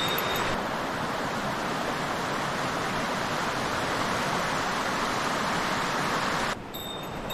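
Steady rush of a mountain river's flowing water. Near the end the rush drops off abruptly and faint high ringing tones come in.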